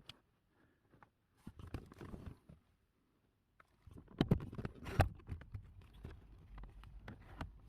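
Clicks, rustles and knocks of hands working plastic car interior trim and a cabin air filter cover, with the loudest knocks about four to five seconds in.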